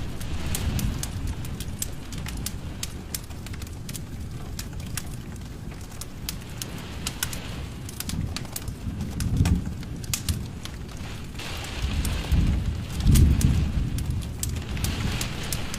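Wood fire in a fireplace crackling, with sharp pops scattered irregularly throughout. Under them is a low flame rustle that swells and fades several times, strongest in the second half.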